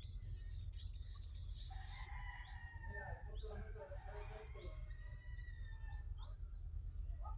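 Small birds chirping: many quick chirps that fall in pitch, repeated throughout, over a steady low rumble.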